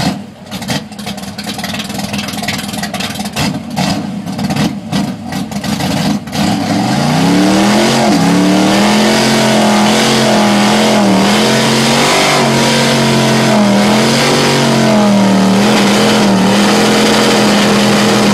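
Small-block Chevy V8 of a 1967 Chevrolet Nova drag car, rated at 600 horsepower, revved in choppy, uneven bursts. About seven seconds in it climbs to high revs and is held there, its pitch wavering, for the rest of the time.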